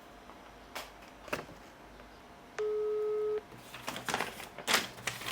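Outgoing phone call's ringback tone: a single steady beep of just under a second from the phone's speaker while the call waits to be answered. Faint clicks of handling the phone come before and after it.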